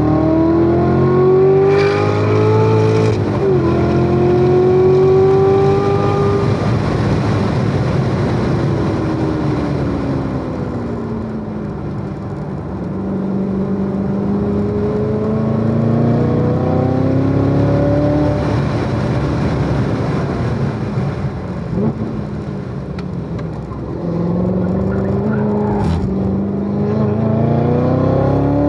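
The supercharged 6.2-litre V8 of a C7 Corvette Z06 is pulling hard on track. Its pitch climbs, drops sharply at an upshift about three seconds in, then climbs again. Through the middle it falls away as the car slows, then rises again, with another shift and pull near the end.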